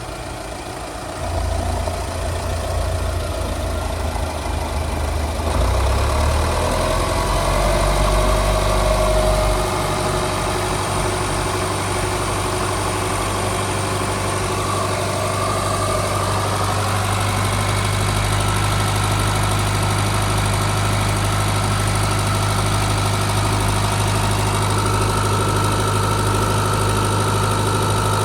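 LDV T60's 2.8-litre four-cylinder turbo diesel engine running after start-up: its note shifts a few times in the first ten seconds, then it settles into a steady idle.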